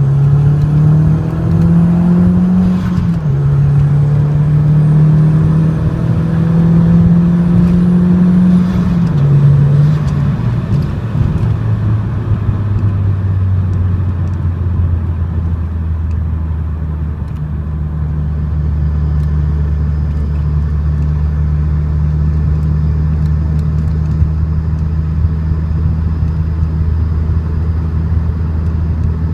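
Audi TT 225's turbocharged 1.8-litre four-cylinder through a 3-inch turbo-back exhaust with no catalytic converter, driven on the road. The engine note climbs, drops about three seconds in as if on a gear change, climbs again, then eases off around ten seconds in and holds a steady low drone at cruise.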